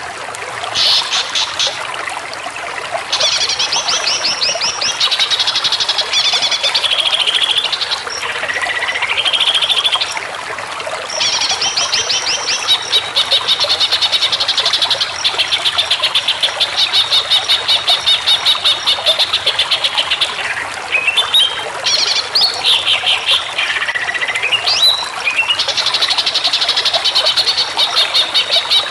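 Green leafbird (cucak ijo) singing: long, rapid rattling trills broken by swooping whistled notes.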